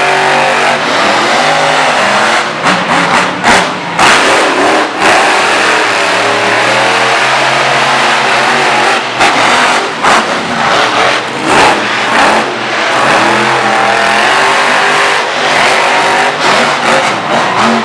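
Monster truck engine revving hard and loud, its pitch rising and falling repeatedly with brief sharp drops in level.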